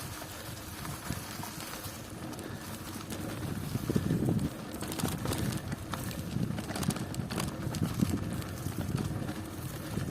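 Bicycle riding over a rough country road, with wind buffeting the microphone, a low rumble and irregular knocks. It gets louder about four seconds in.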